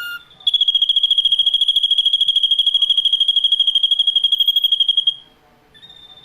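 Ashy drongo giving a long, rapid trill on one high pitch for about four and a half seconds, then stopping. Near the end a fainter, thin whistled note begins and falls slowly in pitch.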